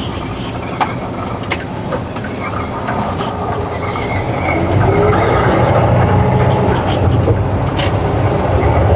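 Semi truck's diesel engine running with a steady low rumble and scattered clicks and clatter, getting louder about five seconds in.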